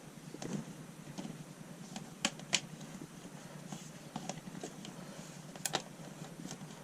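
Irregular sharp clicks and light taps from hand work on bitumen sound-deadening mats, with a few louder clicks in pairs, over a steady low hum.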